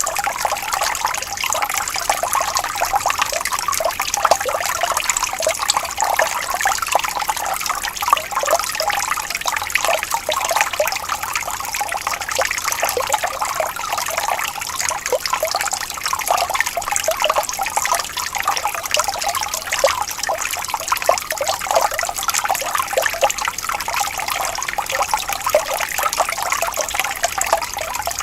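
Water flowing gently and trickling steadily, with a continuous splashy babble.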